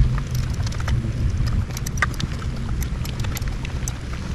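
Scattered light clicks and taps of small parts and hand tools being handled in an engine bay, over a steady low rumble.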